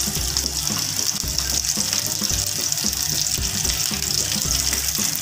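Chicken breasts frying in a pan: a steady, hissing sizzle.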